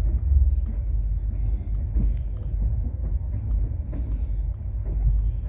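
Steady low rumble of a moving passenger train heard from inside the coach, with faint scattered clicks from the wheels on the track.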